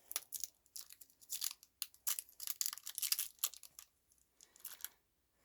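Candy wrapper being torn open and crinkled: a dense run of quick crackles and rips that thins out after about three and a half seconds, with a few more near the end.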